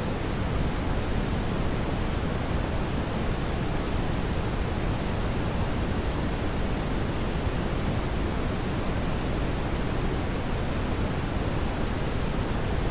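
Steady brown noise: an even, deep rushing hiss, strongest in the low end, with no changes.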